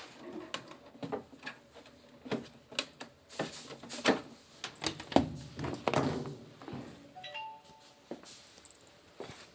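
Repeated knocks and clatters of hard parts being handled, with a short electronic beep a little after seven seconds in.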